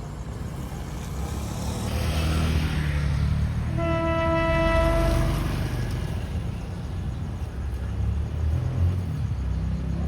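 CC 201 diesel-electric locomotive approaching with its low engine rumble growing louder. About four seconds in it sounds one steady horn blast lasting about a second and a half.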